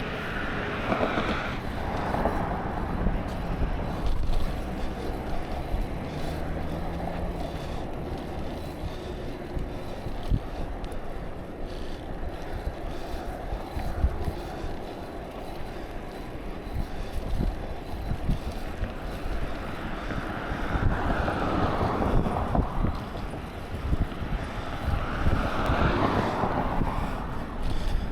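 Wind rushing over the microphone of a camera carried on a moving bicycle: a steady low rumble that swells louder twice near the end.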